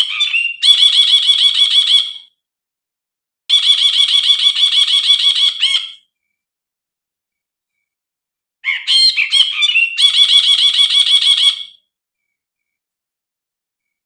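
Brinji (a bulbul) singing three loud phrases, each a fast, buzzy chatter of repeated notes lasting two to three seconds. The first and last phrases open with a few sharp separate notes before the chatter, with short pauses between phrases.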